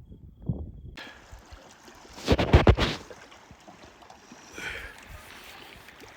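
Water lapping and slapping against the hull of a moored boat that is rocking in the wind, starting suddenly about a second in, with a louder slap about two and a half seconds in.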